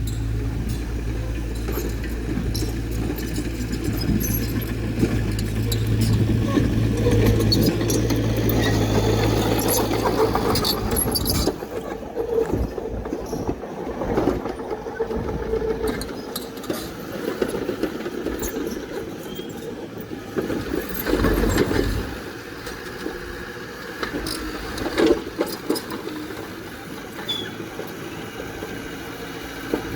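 Heavy diesel earthmoving machine running steadily with a strong low engine note, which drops away about eleven seconds in. Metallic clanks, rattles and squeaks carry on after it, with scattered sharp knocks.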